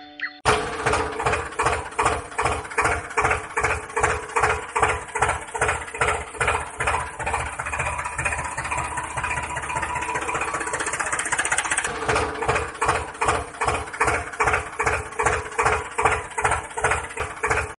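Tractor engine chugging at idle, an even beat of about two to three pulses a second that smooths out for a few seconds in the middle.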